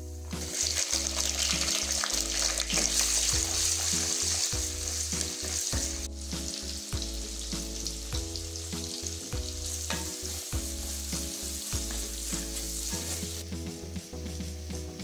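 Shallots sizzling in hot oil in a clay pot, stirred now and then. The sizzle flares up right after they go in, is loudest for the first several seconds, then settles to a lower, steady frying.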